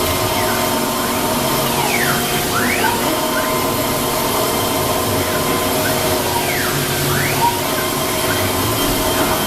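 CNC wood router running: a steady machine drone with constant tones, and a motor whine that falls and then rises again twice.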